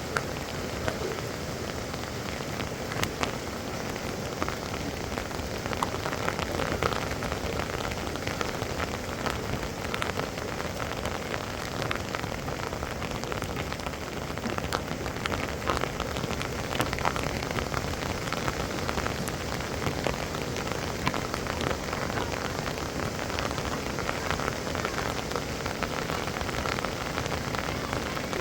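Heavy rain falling steadily, with many sharp individual drop hits on the surfaces.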